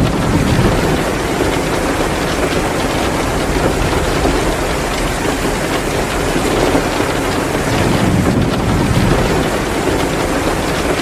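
Heavy rain pouring steadily, mixed with a fireplace crackling. A low rumble swells briefly about eight seconds in.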